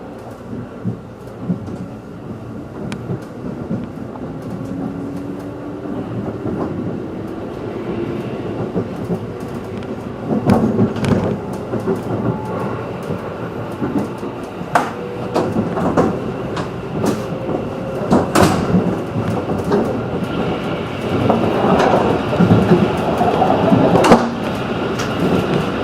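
JR 211 series electric train accelerating: the traction motor tone rises slowly in pitch while the running noise grows louder, with wheels clicking over rail joints more and more often.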